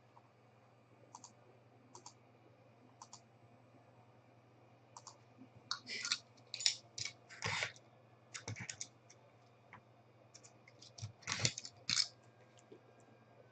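Trading-card packaging and cards being handled: a few light clicks, then two clusters of brief scraping, clicking noises, one about halfway through and one near the end.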